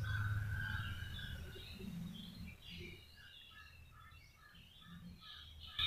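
Faint background bird chirps, ending in a run of about six short, evenly spaced notes, over a low hum that fades during the first second or two.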